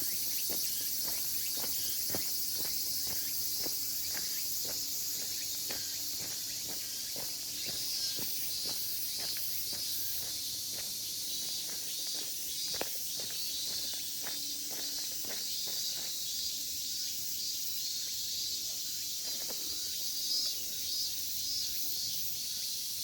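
Steady high-pitched chorus of insects, with scattered light clicks and knocks like footsteps and twigs on the forest floor.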